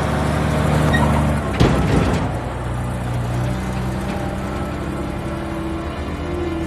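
A vehicle engine running with a steady low rumble, with one sharp thump about a second and a half in.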